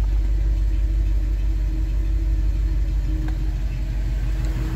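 1962 Chevrolet Impala's 283 small-block V8 idling steadily as it warms up after a cold start, heard from inside the cabin as a low, even rumble.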